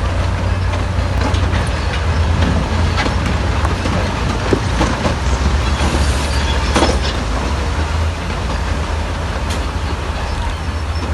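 Crawler bulldozer at work: its diesel engine runs with a steady low rumble while the steel tracks and blade clank and knock, one louder clank about seven seconds in.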